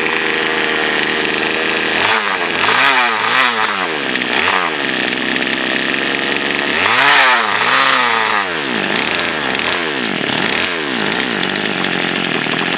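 Poulan Wild Thing two-stroke chainsaw engine running, steady at first, then revved up and down in a run of quick throttle blips from about two seconds in. A bigger burst of revs comes around the middle, with smaller blips after it.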